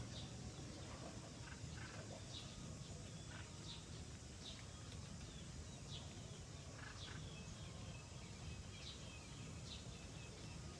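Small birds chirping faintly: short, high chirps scattered every second or so over a steady low background hiss.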